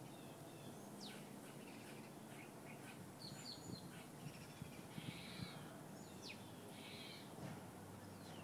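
Faint outdoor background with scattered bird chirps and calls, including two quick downward-sweeping whistles, one about a second in and one near six seconds. A few faint ticks come in the middle.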